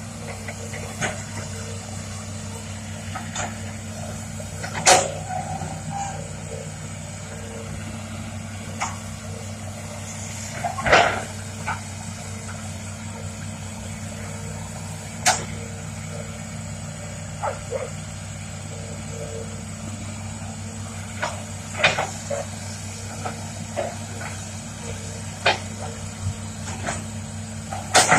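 Hitachi ZX200-5G excavator's Isuzu 6BG six-cylinder diesel running steadily, with scattered sharp knocks and clunks over it, the loudest about 5 and 11 seconds in.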